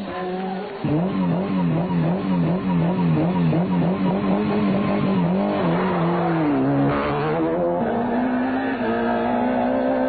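Rally car engines at high revs, the pitch rising and falling quickly about twice a second for several seconds, then dropping and settling to a steadier note.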